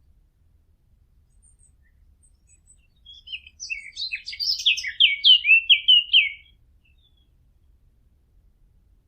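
A warbler (the 'fig bird' of Arab bird hunters) sings one song phrase of quick, varied notes, about three and a half seconds long, ending in a run of loud, short, falling notes.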